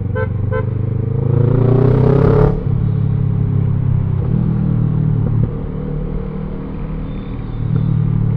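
Kawasaki ER-6N's 650cc parallel-twin engine running through a gutted exhaust while riding: the revs rise over about two seconds, drop abruptly, and the engine then runs on at a steady pace with small changes in revs.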